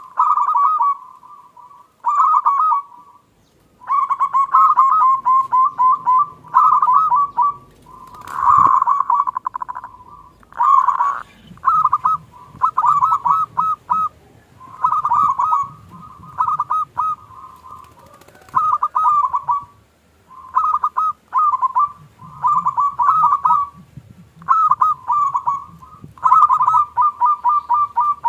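Zebra dove (perkutut) singing: repeated phrases of fast staccato cooing notes, each phrase a second or two long, with short pauses between.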